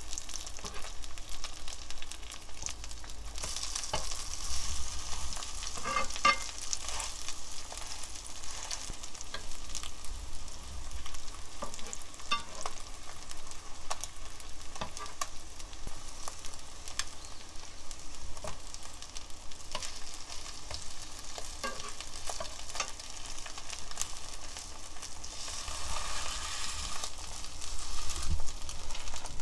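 Egg-battered pollack fillets sizzling in hot oil in a nonstick frying pan, with scattered clicks and scrapes of a metal slotted spatula turning them. The sizzle swells louder a few seconds in and again near the end.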